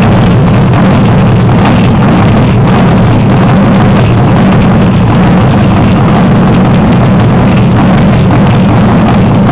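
1978 Ford Landau's V8 engine running steadily with a loud, even, low rumble, held at one speed without revving.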